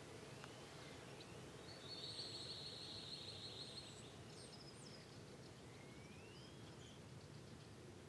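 Faint background calls of small birds: a thin, buzzy trill for about two seconds, starting about two seconds in, and a short rising whistle near the end, over quiet outdoor ambience.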